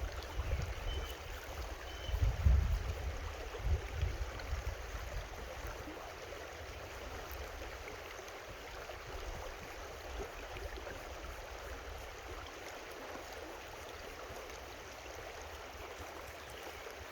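A creek running steadily over its bed, a continuous rushing of water. In the first few seconds there are low rumbling surges, the loudest about two and a half seconds in.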